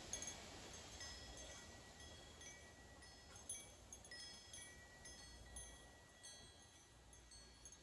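Wind chimes ringing faintly and irregularly as gusts knock them, single high notes scattered over a low rush of wind.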